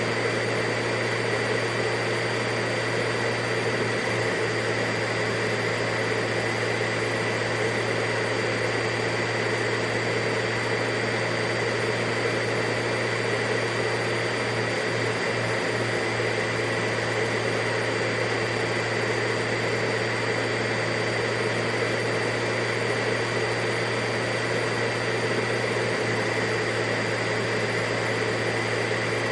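Vacuum cleaner running steadily: a constant hum and rushing noise with a steady high whine.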